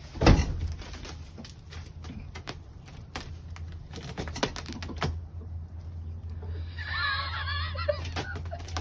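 Irregular clicks and taps over a steady low hum, with a loud knock at the start and a brief wavering high-pitched sound about seven seconds in.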